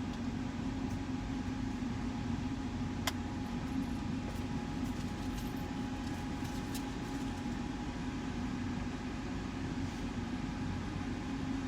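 Car engine idling steadily, heard from inside the cabin, with one short sharp click about three seconds in.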